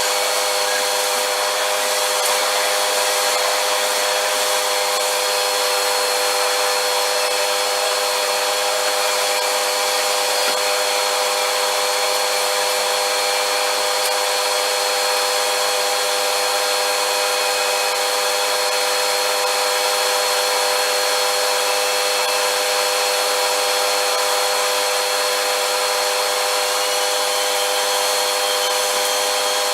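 Vacuum cleaner running steadily: an even rush of air with a constant motor whine that does not change.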